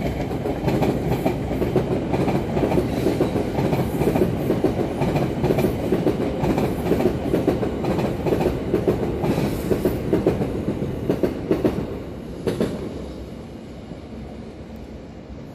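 Long passenger train running along an elevated viaduct, its wheels rumbling and clattering over the rails. There is a sharp click about twelve seconds in, and the sound fades as the train moves away near the end.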